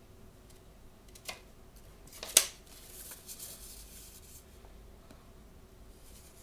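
Blind-bag packaging being opened and handled: a light click about a second in, then a sharp snap, then a couple of seconds of rustling.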